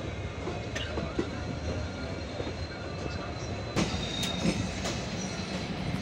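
Train running on the track, heard from on board: a steady rumble with a faint high wheel squeal. About four seconds in, a run of sharp wheel clacks begins over the rails.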